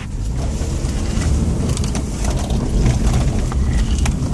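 Honda CR-V being driven, a steady low rumble of engine and road noise with a few faint clicks and rattles.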